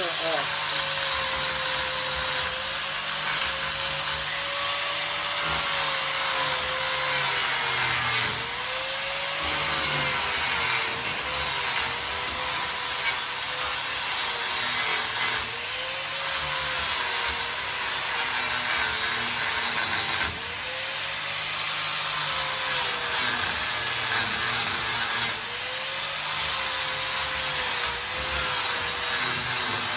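Angle grinder running and grinding down welds in sheet-metal floor panels. Its steady whine sags in pitch every few seconds as the disc is pressed into the metal, then picks back up.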